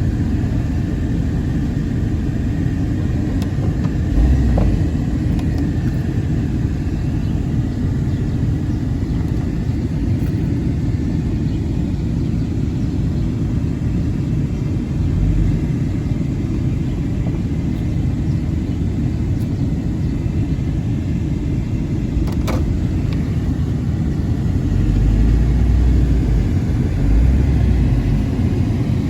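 Two-door Chevy Tahoe running, heard from inside the cab with the windows down: a steady low rumble, with a few heavier low swells, the strongest near the end.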